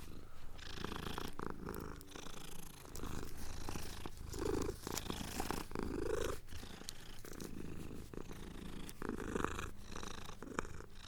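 Domestic cat purring, the sound swelling and easing with each breath.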